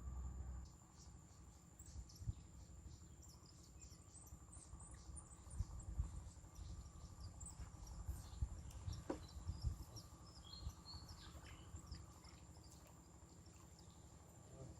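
Small birds chirping in many short high calls over a steady high-pitched insect drone, with scattered low thumps and rumble.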